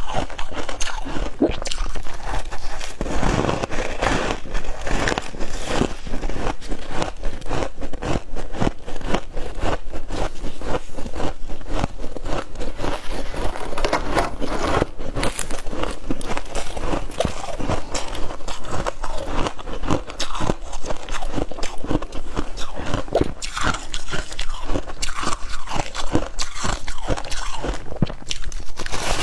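Close-up crunching and chewing of crisp frost ice: repeated bites crackling and crumbling between the teeth, many crackles a second.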